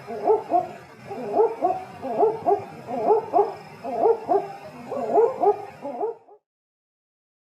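An owl calling: clusters of short, hooting notes that bend in pitch, repeated about once a second, cutting off about six seconds in.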